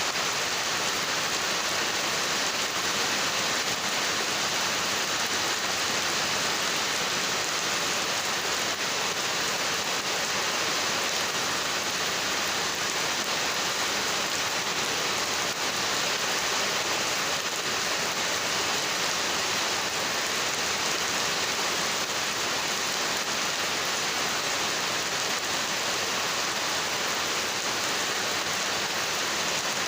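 Heavy rain falling steadily, an even unbroken hiss of downpour without letting up.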